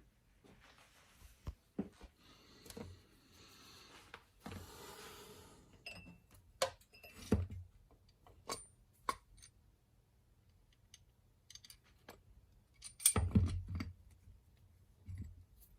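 Scattered clinks and knocks of small metal objects being handled and set down. There is a brief sliding noise about four to five seconds in, and the loudest clatter comes near the end.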